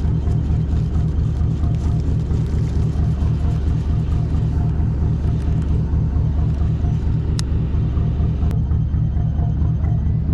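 Boat engine running steadily with a low, even rumble, with a couple of sharp clicks later on.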